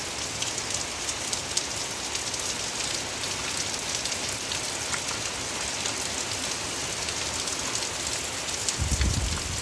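Heavy rain falling steadily, with many separate drop hits heard in the hiss. A low rumble comes in near the end.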